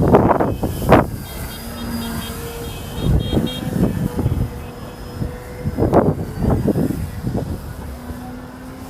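Wind gusting and buffeting the microphone, in uneven loud bursts, with a Pitts biplane's engine droning faintly and steadily underneath.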